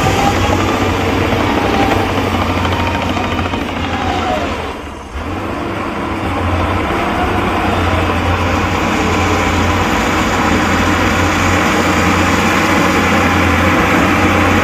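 Diesel engines of heavy earthmoving machines running loud and steady under load, with a constant low hum. About five seconds in the sound briefly fades and then jumps back.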